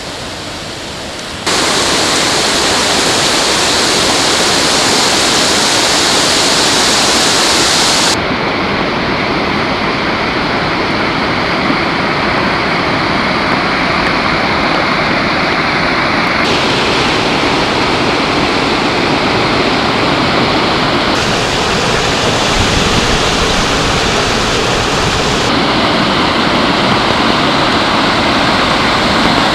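River rapids rushing loudly past an old rock-cribbed log dam: a steady, dense roar of water whose tone changes abruptly several times.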